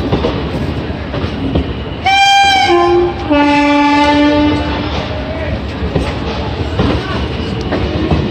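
Passenger coaches of an Indian Railways express rolling past a platform, their wheels clattering. About two seconds in a train horn sounds twice: a short higher blast, then a longer, lower one lasting about a second and a half.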